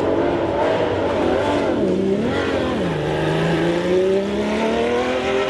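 Lamborghini LE3512 V12 of a Minardi M191B Formula One car running on track: the revs dip and pick up again about two seconds in, drop near three seconds, then climb steadily as the car accelerates.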